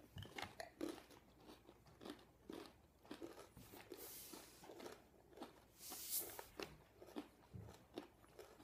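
Quiet crunching and chewing of chocolate-dipped pretzel crisps: many small crisp cracks throughout, with two short hisses about four and six seconds in.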